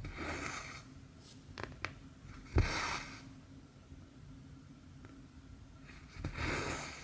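Cotton embroidery thread being pulled through cross-stitch fabric: three soft swishing pulls, with a few light clicks between them.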